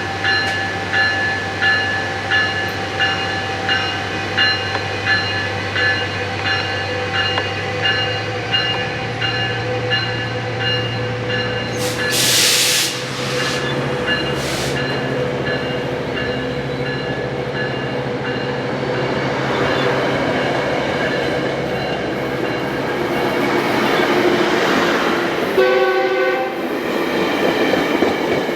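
Metrolink commuter train running at the station, with a steady engine drone and a pitched ding repeating about twice a second, typical of a grade-crossing bell. A loud burst of air hiss comes about twelve seconds in, and a short horn blast sounds near the end as the train noise builds.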